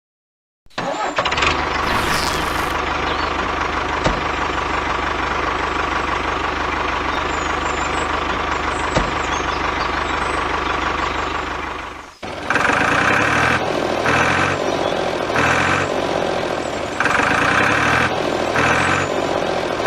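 A vehicle engine running steadily. It cuts off sharply about twelve seconds in and is replaced by another engine-like sound that pulses about once a second.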